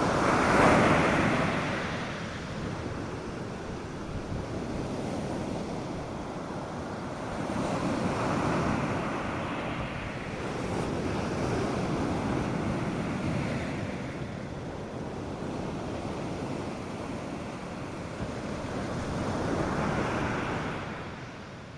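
North Sea surf breaking and washing on a sandy beach, rising and falling in four slow swells, the first the loudest.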